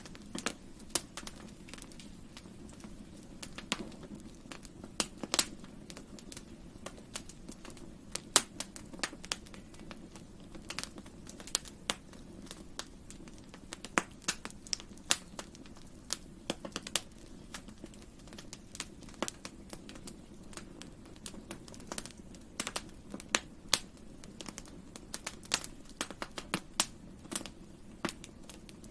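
Campfire crackling: irregular sharp pops and snaps of burning wood, sometimes several in a second, with a few louder pops, over a steady low sound of the fire.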